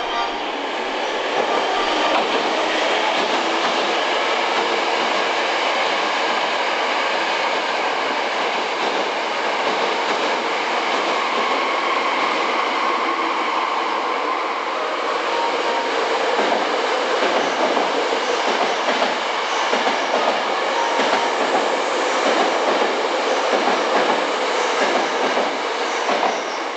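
Hankyu electric train running on the rails close by: steady running noise with wheel clatter over the track, and a faint wheel squeal about halfway through.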